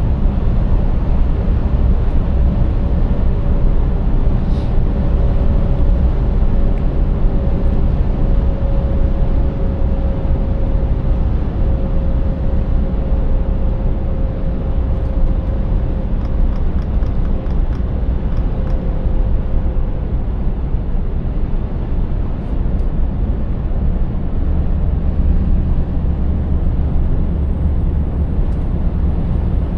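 Scania 590S truck's 16-litre V8 diesel running under way, with a steady low drone of engine and road noise. A faint whine slowly drops in pitch and fades out about two-thirds of the way through.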